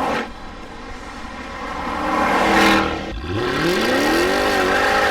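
Car engine revving: a rising rush of engine noise that breaks off about three seconds in, then the engine climbs steeply from a low pitch and holds at high revs, wavering slightly.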